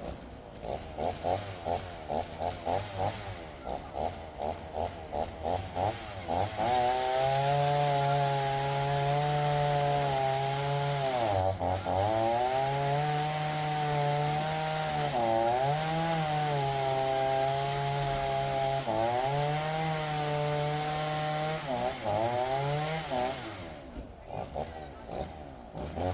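Makkie 38cc two-stroke chainsaw idling with a pulsing beat for several seconds, then opened up to high, steady revs for cutting a log, its pitch dipping briefly several times as the chain loads up in the wood, then dropping back to idle near the end.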